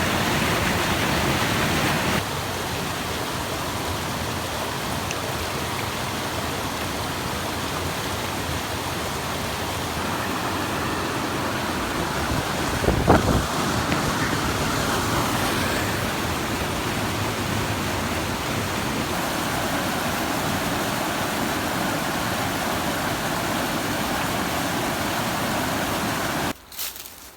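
Forest stream running over rocks, heard close up as a steady rush of water that shifts in level a couple of times. About halfway through there is one brief sharp knock, and near the end the water cuts off suddenly, leaving a few faint rustles.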